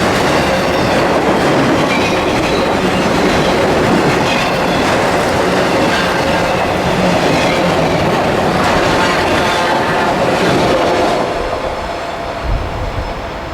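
Freight train cars rolling past, wheels clicking over rail joints, with some faint wheel squeal. The sound drops off about eleven seconds in as the train draws away, with a couple of low thumps near the end.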